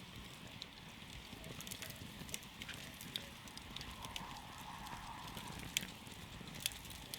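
Wood campfire burning with a low, steady rush of flame and scattered sharp crackles and pops, a few clearly louder than the rest.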